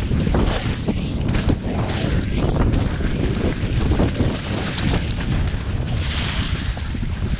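Wind buffeting the microphone with a heavy rumble, mixed with many irregular knocks and rattles.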